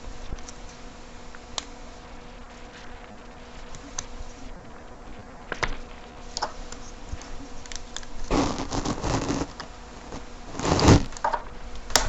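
Small clicks, taps and scraping from hands and tools working on the small parts of a smartphone being taken apart, with two longer, louder scraping stretches in the last few seconds, under a steady low electrical hum.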